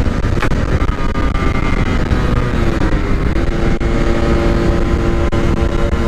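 Yamaha RX-King 135cc two-stroke single running on the move through a packed standard-style muffler, with heavy wind rumble on the microphone. From about halfway the engine note holds steady at a constant pitch.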